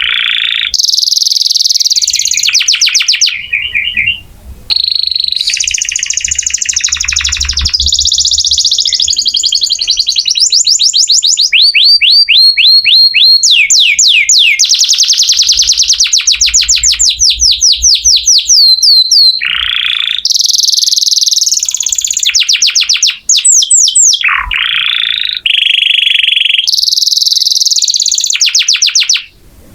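Domestic canary singing a long, loud song of rapid trills and rolls, with fast runs of repeated sweeping notes, many per second, and only brief pauses.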